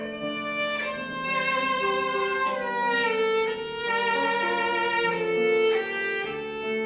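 Live chamber music: a violin plays sustained, held melody notes over cello and other bowed strings.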